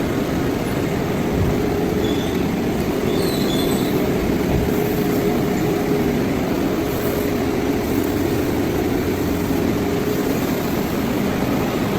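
Steady mechanical drone of running machinery, with a faint steady hum held throughout and a few faint high squeaks.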